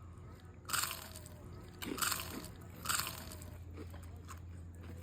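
Biting and chewing a crispy fried chicken nugget dipped in sauce, with three crunches in the first three seconds.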